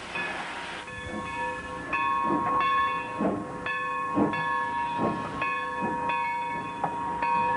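Steam locomotive sounds: a steam hiss that eases about a second in, then steady high tones that start and stop every half second or so, with a few dull knocks.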